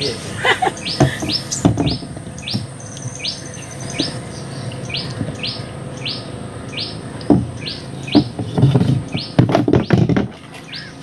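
A bird repeating one short, high call about twice a second. Between about seven and ten seconds in, a cluster of knocks and thuds from handling gear in the boat.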